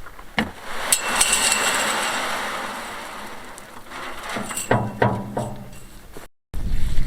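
A sharp knock followed by a rushing clatter that fades over a couple of seconds, then a few more knocks a little after four seconds in: hand tools striking during fence-post work.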